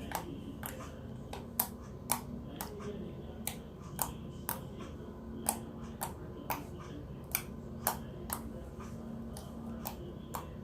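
Glossy slime being poked, pressed and stretched, giving sharp, irregular clicks and pops about twice a second.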